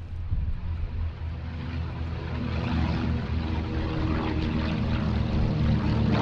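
Douglas C-41A (VIP DC-3) twin radial piston engines running at high power with propeller drone, the steady engine note growing louder from about two seconds in.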